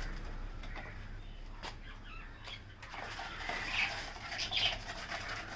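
Lovebirds in a wire aviary giving a few short, high chirps, mostly in the second half, with a couple of faint clicks.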